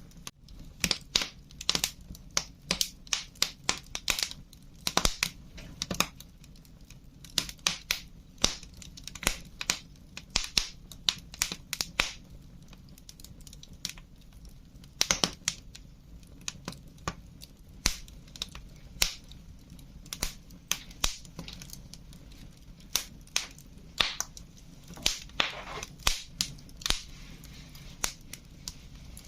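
Wood fire crackling: burning logs give off irregular sharp pops and snaps, several a second at times, over a low steady background rumble.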